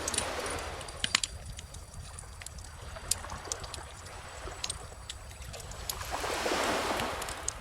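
Wood bonfire crackling, with sharp pops scattered throughout, over calm ocean waves washing in. One wave swells and breaks near the end.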